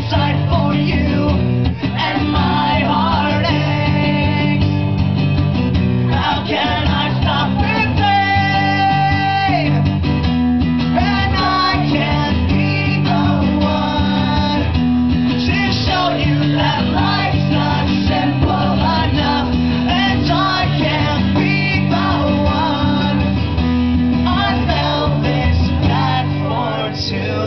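Live acoustic rock performance: strummed acoustic guitars with a singer, the playing steady and loud throughout.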